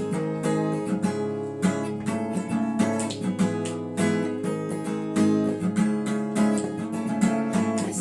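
Acoustic guitar strumming chords in a steady rhythm, with no voice: the instrumental break between verses of a song.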